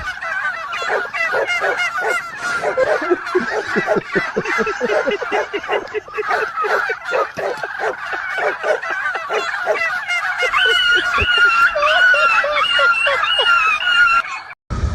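A flock of birds calling, many overlapping calls at once, cutting off abruptly near the end.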